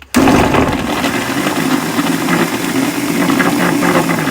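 Electric kitchen mixer grinder starting suddenly and running loud and steady as it grinds ginger, garlic, green chilli, onion and tomato into a paste.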